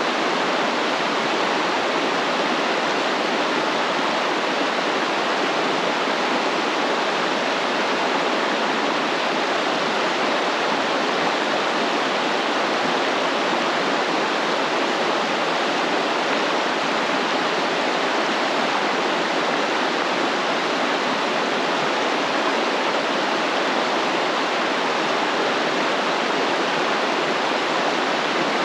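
Stream water flowing and rushing steadily, an even unbroken splash with no change through the stretch.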